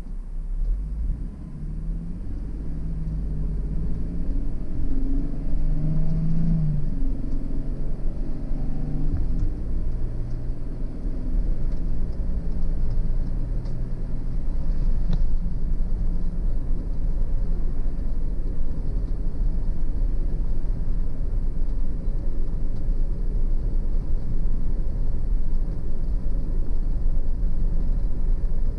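A car driving: engine and road rumble grow louder over the first few seconds as it picks up speed. The engine note changes pitch several times in the first dozen seconds, then settles into a steady cruising rumble.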